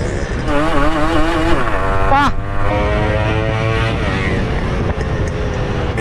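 Yamaha RX100's two-stroke single-cylinder engine running under throttle, its pitch wavering up and down, with one quick sharp rev a little after two seconds.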